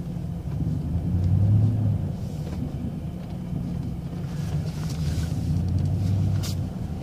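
Plow truck's engine running with a steady low drone that swells twice, and a single sharp click near the end.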